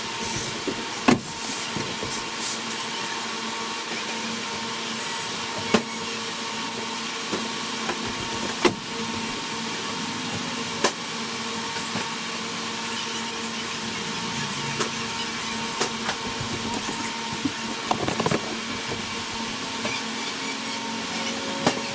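Steady mechanical hum with sharp knocks and rattles scattered through it.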